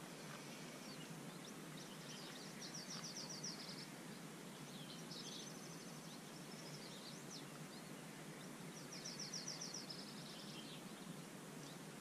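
Rural outdoor ambience: songbirds singing, with about four rapid high trills of quick evenly spaced notes, each lasting around a second, and scattered chirps, over a steady faint hiss.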